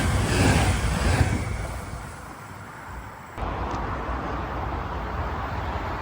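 Rumble of a passing SBB Re 460 locomotive-hauled IC2000 double-deck train, pulsing about every half second and fading away over the first two seconds. About three and a half seconds in it cuts abruptly to a steady outdoor rumble at the trackside.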